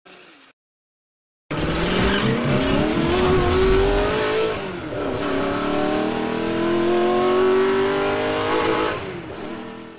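Racing car engine sound effect revving up: it starts about a second and a half in, its pitch climbs for about three seconds, drops, then climbs again before fading out near the end.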